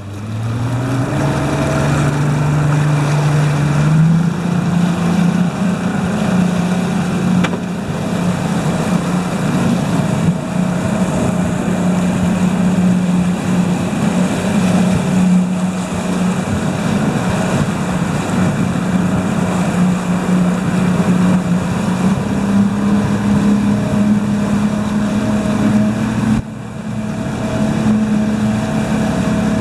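Boat engine speeding up, then running steadily under way; it picks up speed again near the end, with a short dip a few seconds before the end.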